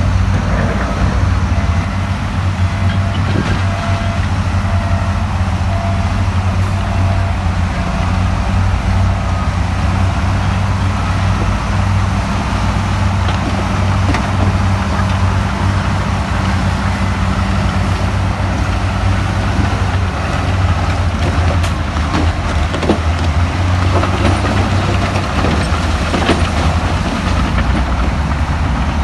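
Heavy diesel engine of earthmoving machinery running steadily, with a few sharp knocks and clanks in the second half.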